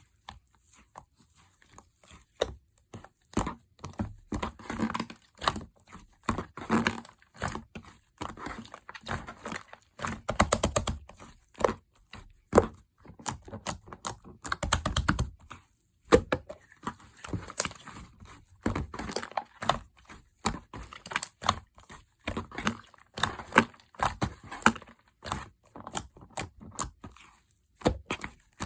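Slime being squeezed, pressed and stretched by hand, making dense, irregular crackling clicks and small pops, with a few duller thuds now and then.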